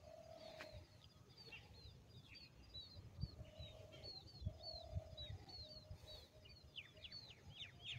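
Faint chirping of small birds: many short, quick falling notes, coming thicker near the end.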